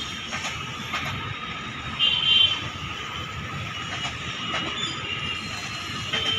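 Passenger train rolling through a station yard, heard from on board: a steady rumble of wheels on rail with scattered clicks over rail joints and points. A brief high wheel squeal comes about two seconds in.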